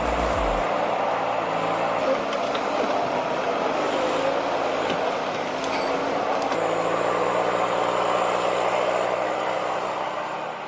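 Heavy diesel machine running steadily under load, a dense even engine and mechanical noise with no clear changes in pitch.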